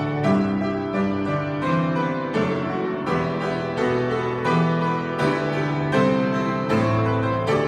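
Piano music: chords and a moving bass line, each note struck and then fading, at a moderate, even pace.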